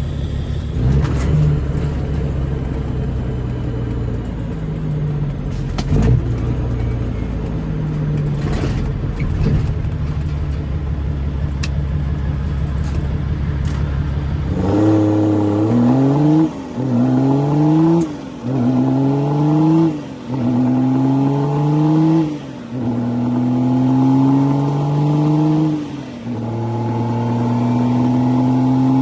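Straight-piped Caterpillar C13 diesel of a Kenworth W900B dump truck running steadily at low revs. About halfway in, it pulls away through the gears: the engine note rises and then drops at each upshift, about six times, each gear held a little longer.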